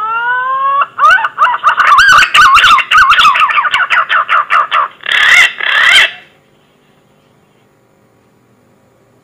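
Punai (green pigeon) lure call: a rising whistled glide, then a fast run of warbling, wavering whistled notes, ending in two louder notes about five to six seconds in.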